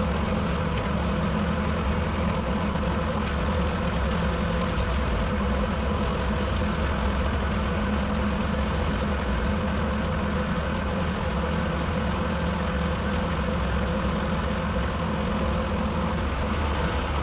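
Tractor engine running at a steady speed, driving a rotary cutter (bush hog) while mowing.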